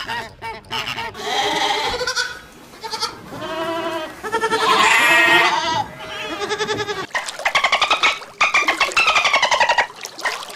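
Sheep bleating, a series of drawn-out calls. From about seven seconds in, a rapid pulsed chattering of dolphins, its pitch rising and falling.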